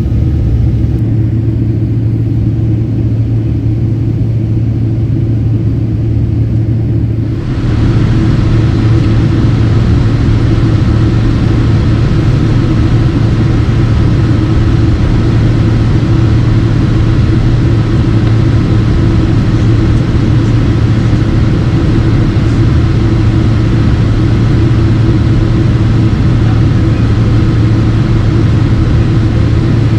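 Steady loud cabin roar of a Boeing 767-300 jet in flight, a deep hum under a rushing hiss that grows brighter about seven seconds in.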